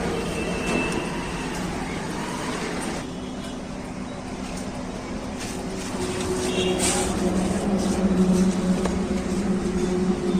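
Swaraj 855 FE tractor's three-cylinder diesel engine running steadily, growing louder about six seconds in.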